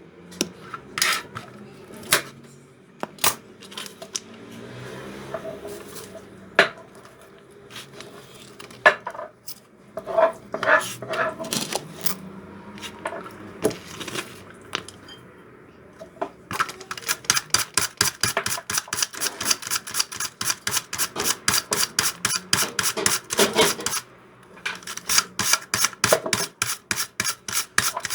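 Utensils clinking against dishes at irregular moments. Then, about halfway through, a fast, even run of clinks, about six a second, from a whisk beating in a bowl. It breaks off briefly and starts again near the end.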